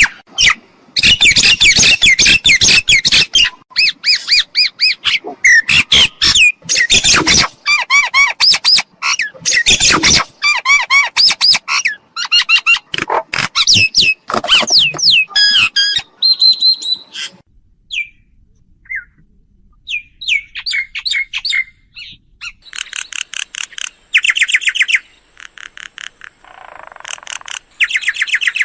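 Myna calling: a dense run of harsh squawks, chatters and sweeping whistled notes, thinning out about halfway through into sparser calls and quick rattling chatter runs.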